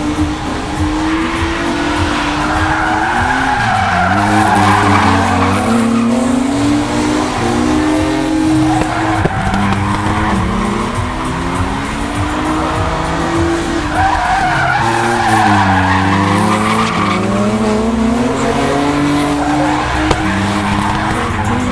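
BMW E36 inline-six engine revving up and down through a drift, its note rising and falling again and again, with tyres squealing, loudest in two long slides.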